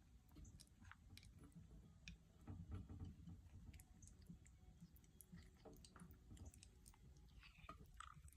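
Faint, scattered clicks and crunches of an African grey parrot eating, its beak working on pieces of vegetables, fruit and egg.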